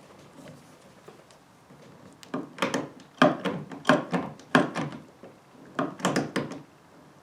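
An irregular series of about a dozen hollow knocks and thunks, starting about two seconds in and lasting some four seconds: hand work on a plastic kayak deck while fitting a flush-mount rod holder.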